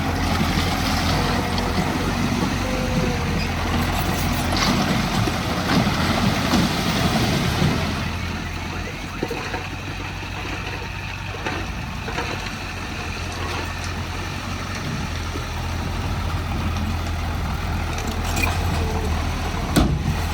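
Heavy diesel equipment, a bulldozer working with dump trucks, running under load with a steady low engine drone. It is louder and rougher for the first eight seconds or so, then settles to a quieter, steadier running, with a sharp knock near the end.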